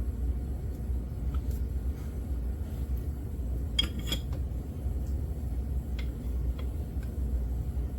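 Metal hand tools and engine parts clinking against each other, with a short cluster of clinks about four seconds in and a few lighter ticks, over a steady low rumble.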